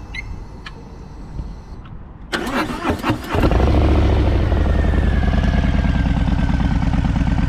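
Harley-Davidson Fat Boy's V-twin engine cranked by its starter for about a second, then catching and settling into a steady idle with an even, rhythmic pulse. It starts and runs cleanly, a sign the owner's own repair has worked.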